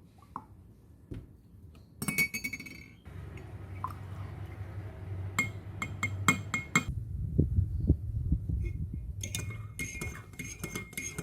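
Glass and ceramic dishes clinking against each other in three short clusters of ringing knocks, the last one denser, over a low steady hum.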